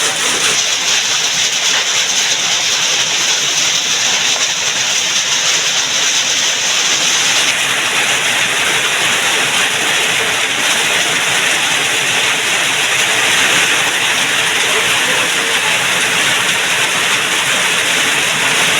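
Steady, loud rush of water, an even hiss with no distinct drops or splashes.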